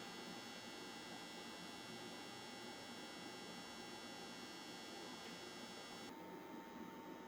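Faint, steady electrical hum with thin whining tones over a light hiss. About six seconds in, the high hiss drops away and a steady high tone comes in.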